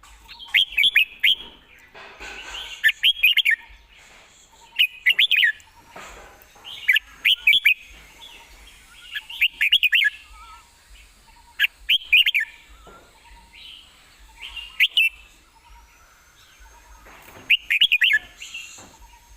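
Red-whiskered bulbul singing: short, quick phrases of several bright notes, repeated every second or two.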